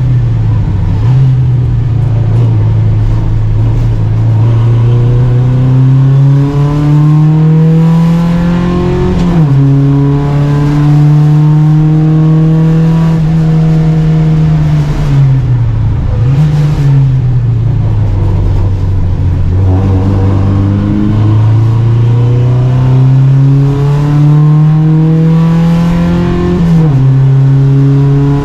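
Volvo Amazon 121 race car's four-cylinder engine at racing speed, heard on board. The revs climb steadily and drop sharply at an upshift about nine seconds in and again near the end, with a quick lift and drop in revs around the middle before it pulls up again.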